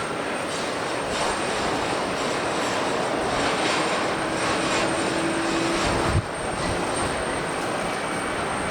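Jet airliner engine noise, a loud steady rush that swells about four to five seconds in, then changes abruptly about six seconds in.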